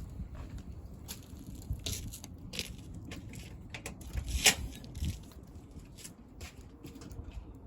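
Wood fire crackling in a homemade bucket fire pit: irregular sharp pops and snaps, the loudest about four and a half seconds in.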